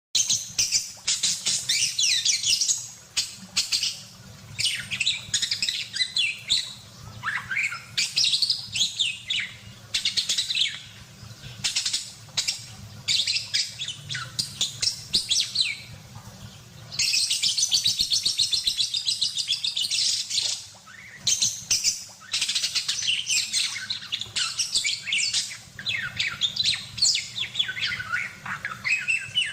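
Budgerigar chattering and warbling: fast runs of twittering chirps with short pauses between them, and one long unbroken stretch of chatter about two-thirds of the way through.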